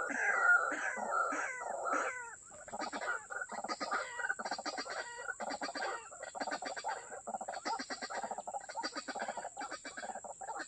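White-breasted waterhen (ruak-ruak) calling: a string of falling croaking notes about three a second, then from about two seconds in a faster, denser run of short clucking notes.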